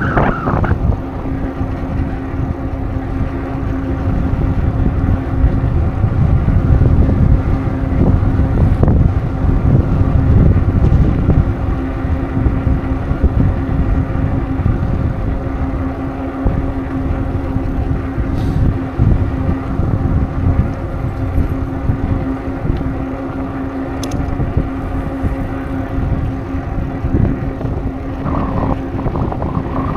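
Wind buffeting a moving bicycle's microphone over the rolling noise of the ride, swelling in gusts, with a steady low hum underneath.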